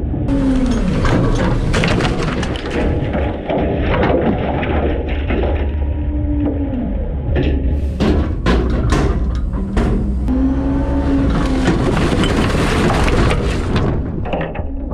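Front-load garbage truck's engine and hydraulics rumbling, the pitch rising and falling several times, while refuse crashes and crunches in the hopper. A burst of sharp cracks and bangs comes about eight to nine seconds in.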